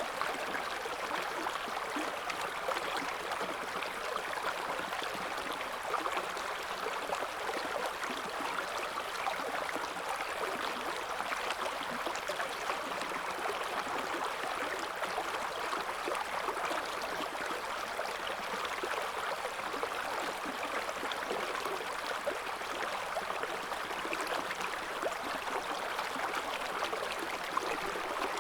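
River water flowing over stones, a steady rushing and babbling of a shallow current.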